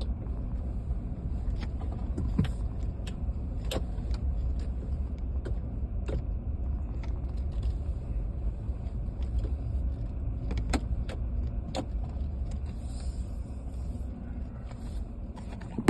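Steady low rumble of a pickup truck driving slowly, heard from inside the cab, with scattered light clicks and rattles.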